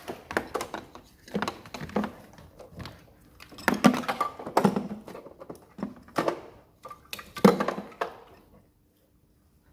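Irregular knocks and clunks of hands-on work on a car in a small workshop, with the loudest knocks about four and seven and a half seconds in.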